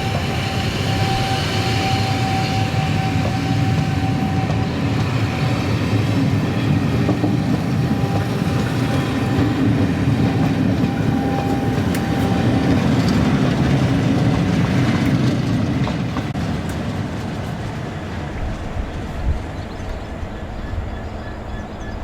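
A train passing close by with a steady rumble of wheels on rail and a thin ringing tone in the first half. It eases away after about sixteen seconds.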